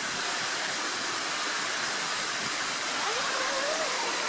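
Steady rushing of running water, an even hiss with no rhythm.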